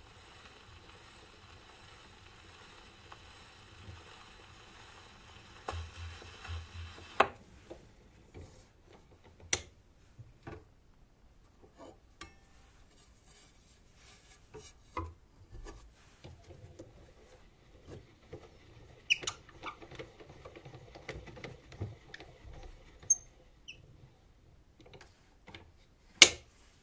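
Steady surface hiss from a shellac 78 rpm record's run-out groove, cut off with a click about seven seconds in as the pickup is lifted. Then come scattered clicks, knocks and rubbing as the record is handled and turned over, with one sharp, loud click near the end.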